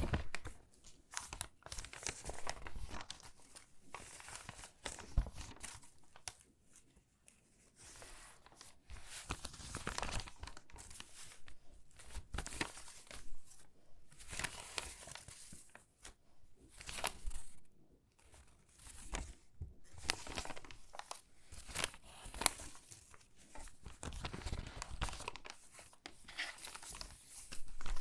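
Stiff, crinkly water-damaged magazine pages being handled and sorted, rustling and crackling in uneven bouts with short quieter gaps between.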